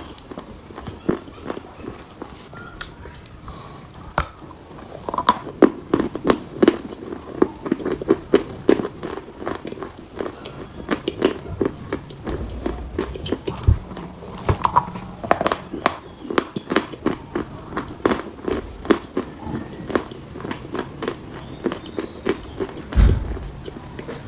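Dry chalk being bitten and chewed, a dense, uneven run of sharp crunches, with a low thump near the end.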